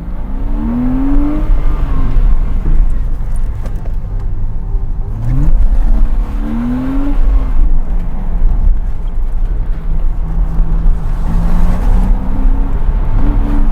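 Porsche Cayman 987's 2.7-litre flat-six being driven hard. The revs climb, drop back and climb again several times as it goes through the gears, over a heavy low rumble.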